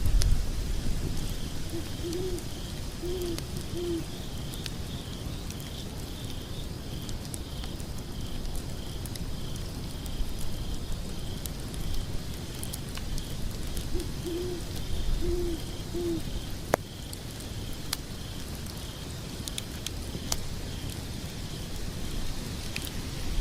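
An owl hooting in two phrases of three low hoots, about ten seconds apart, over a steady high chirping of insects. Scattered sharp crackles of burning logs run through it.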